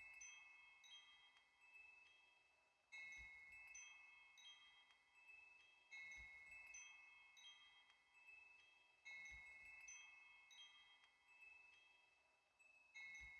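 Faint chimes ringing: a clear strike about every three seconds, four in all, each ringing out and fading, with lighter tinkling notes in between.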